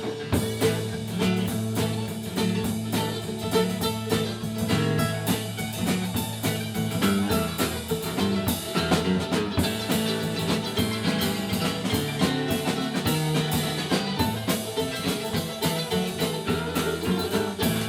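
Live band playing an instrumental break: electric guitar lead over bass and a steady drum-kit beat, in a bluesy country-rock style.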